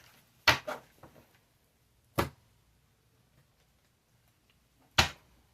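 Tarot cards being handled and laid down: four sharp taps or snaps, two close together about half a second in, one around two seconds in and one near the end, with quiet between.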